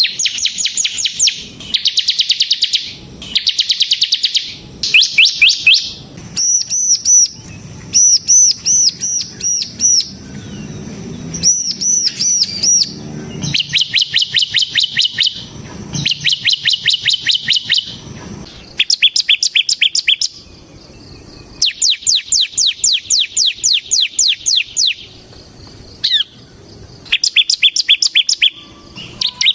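Bar-winged prinia (ciblek semi) singing in the rapid 'ngebren' style. The song comes as fast trilled phrases of a second or two each, separated by short pauses, with a run of looping, arched notes in the middle.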